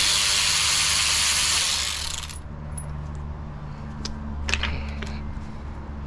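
Pneumatic ratchet hissing for about two seconds as it backs out the T30 bolts holding the timing chain tensioner, then a few light metallic clicks as the work goes on.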